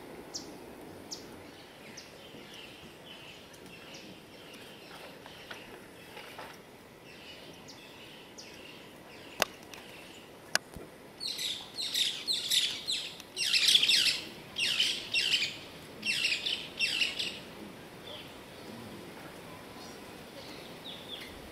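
Birds calling: faint high chirps at first, then from about halfway a loud, rapid run of high downward-sliding chirps lasting several seconds. Two sharp clicks come just before the loud run.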